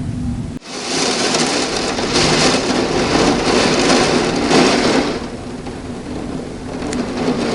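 The tail of a thunder rumble, cut off abruptly about half a second in, then steady heavy rain hissing, easing somewhat near the end.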